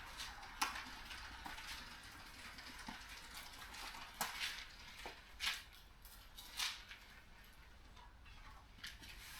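Faint, scattered light clicks and clinks of small hard objects, about a dozen spread over several seconds, over a low steady hum.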